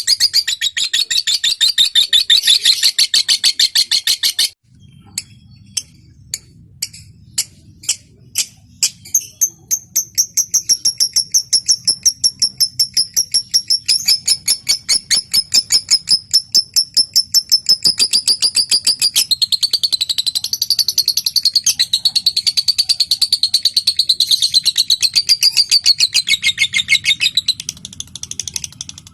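Lovebird calling high and fast: a dense chattering trill cuts off abruptly, then single sharp ticks ('ngetik') start up and speed up until they run together into a long, rapid, continuous chatter ('ngekek') that carries on almost to the end.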